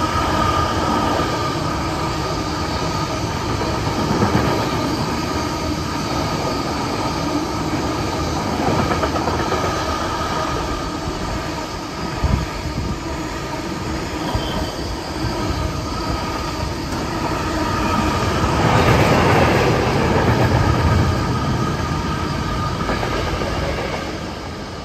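A diesel-hauled train of yellow engineering wagons running past at speed, the wagons rolling by for most of the time with a few sharp knocks. The sound grows louder about 19 seconds in as the rear diesel locomotive passes, then starts to fade near the end.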